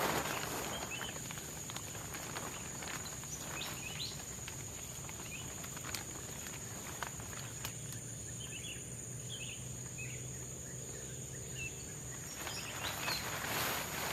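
Tropical forest ambience: a steady high-pitched insect drone with scattered short chirps and a faint low hum underneath. Louder rustling near the end.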